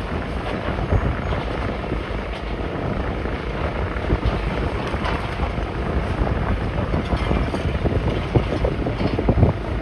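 Demolition machinery running steadily, a heavy diesel engine with irregular crunching and clatter of rubble over it.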